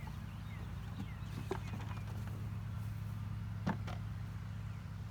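Honeybees humming steadily around an open hive, with a couple of sharp knocks, the louder one about two-thirds of the way in, as hive frames are handled.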